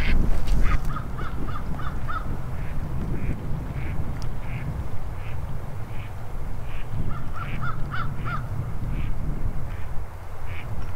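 Wild birds calling: two quick runs of five or six short, clipped calls, one near the start and one about two thirds of the way through, with single higher calls scattered between, over a steady low rumble.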